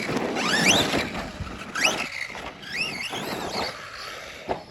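Electric RC car motors whining up in pitch as the cars accelerate, several times in a row, over a noisy spray of tyres on dirt.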